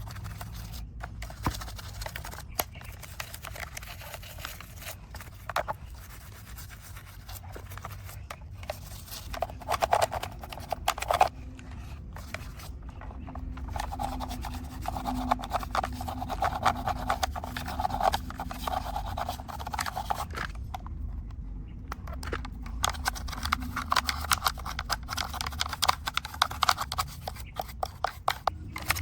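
Rubbing and scraping on a small diecast model car as mud is cleaned off, with many irregular light clicks and taps and a couple of short pauses.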